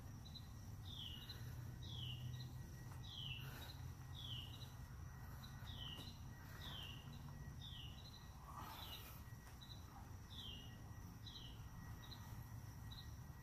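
A bird repeating a short falling chirp about once a second, each with a brief higher note beside it, over a steady low hum.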